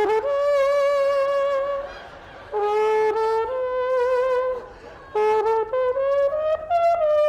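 A brass-sounding fanfare melody of long held notes, one line at a time. It breaks off twice and then climbs in steps toward the end.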